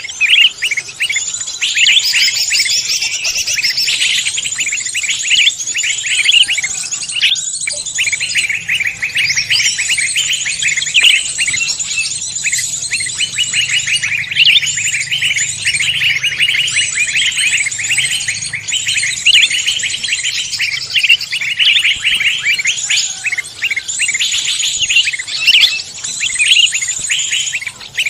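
Dense chorus of many songbirds chirping and trilling over one another without a break, a recorded mix of forest birds.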